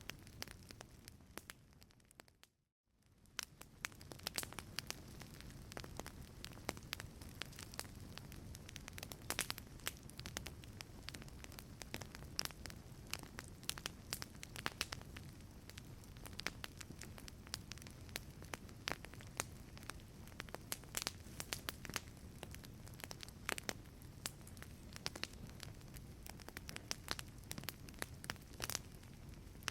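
Wood fire burning in a fireplace: a steady low rumble with frequent sharp crackles and pops. About two seconds in the sound fades out briefly and then fades back in.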